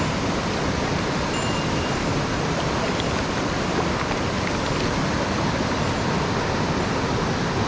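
Mountain stream water rushing steadily over rocks, the flow running high after rain.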